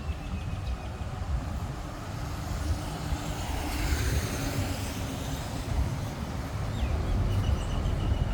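Street traffic with a steady low rumble; a vehicle passes close by around the middle, its noise building and then fading.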